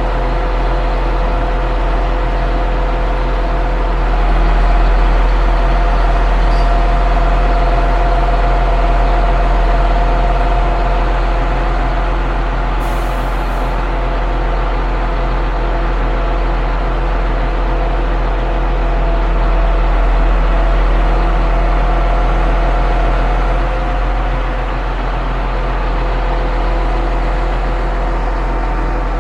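Concrete pump truck's engine running steadily under load, swelling a little louder twice, with a short hiss about halfway through.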